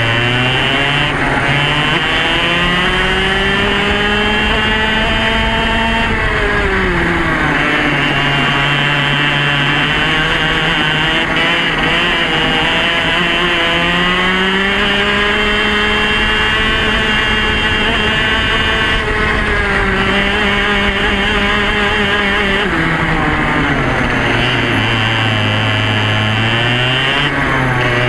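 Yamaha KT100 two-stroke kart engine at racing speed, revving up along the straights and dropping off for the corners. The pitch climbs for about six seconds, falls and holds low, climbs again for about eight seconds, falls, then starts rising again near the end.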